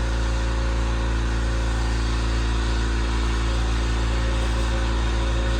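Air compressor running steadily with a constant, pretty loud motor hum.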